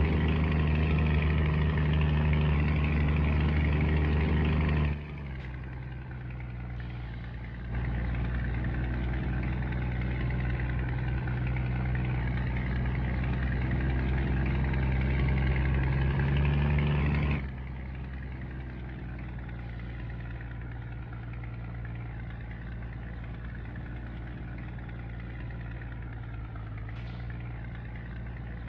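Scania truck's diesel engine running steadily. Its sound drops sharply about five seconds in, comes back up about three seconds later, and drops again a little past halfway, staying lower and even to the end.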